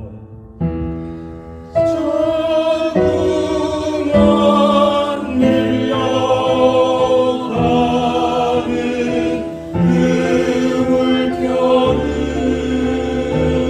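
Small mixed vocal ensemble singing sustained chords in close harmony, with piano accompaniment. The sound starts soft and swells to a fuller chord about two seconds in, then the chords change roughly every second or two.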